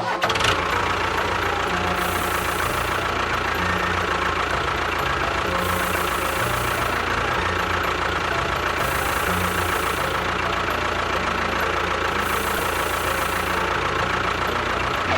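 An engine running steadily, starting and stopping abruptly, with a hiss that swells and fades about every three to four seconds.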